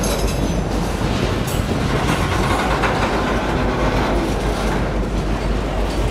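A train moving along the track, its cars rolling on the rails in a steady, loud rumble.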